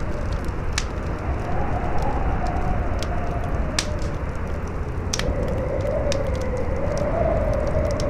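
Campfire crackling with scattered sharp pops over a steady bed of wind. The wind howls in a wavering tone that swells about five seconds in.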